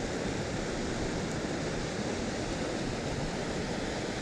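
Steady, even rushing noise outdoors, with no distinct events.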